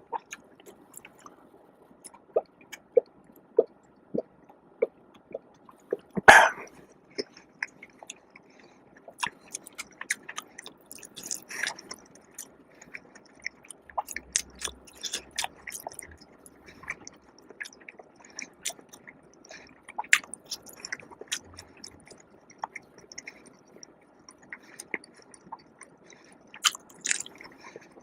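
A person chewing and biting food close to the microphone: wet mouth sounds with many sharp crackles and clicks. A run of evenly spaced clicks comes in the first few seconds, and a single loud crunch or knock about six seconds in.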